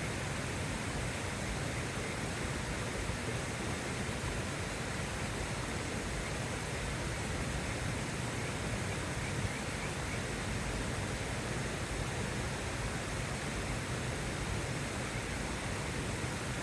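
Steady rain heard from inside a tent: an even, unbroken hiss with no single drops or crackles standing out.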